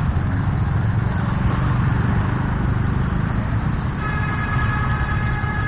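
Motorcycle engine running in slow traffic, a steady low rumble. About four seconds in, a steady high-pitched tone from another vehicle joins it.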